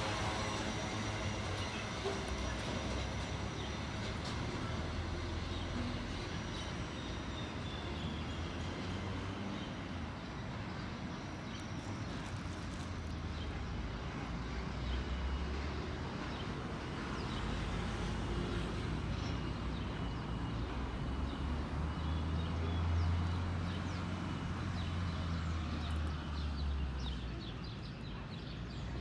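Freight train passing, a steady low rumble of wagons rolling on the rails with faint scattered ticks.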